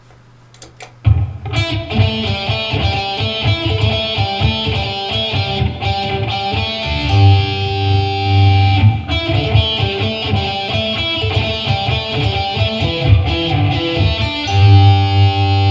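Guitar playing a picked melodic riff over a bass line, starting about a second in.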